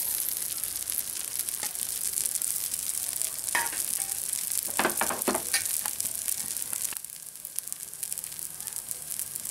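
Dosa batter and freshly drizzled oil sizzling on a hot pan, a steady hiss. A few light taps and scrapes of a steel spoon spreading the oil come around the middle. The sizzle eases a little near the end.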